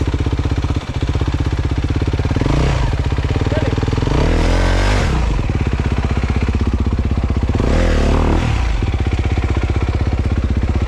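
Dirt bike engine idling with an even, quick pulse, revved three times: a short blip about two and a half seconds in, then two longer revs around four and eight seconds in.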